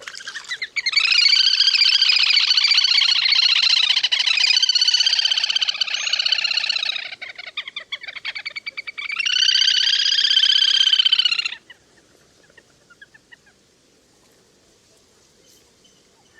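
Le le hôi, a lesser whistling duck, calling in a recorded lure track. The calls come as a long run of rapid, chattering high calls lasting about six seconds, then break up. A second, shorter run follows and stops abruptly about twelve seconds in.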